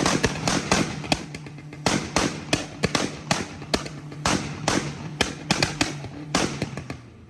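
Car exhaust popping and crackling off throttle: a run of sharp, irregular bangs, a few a second, that grow fainter over several seconds, over a low engine tone.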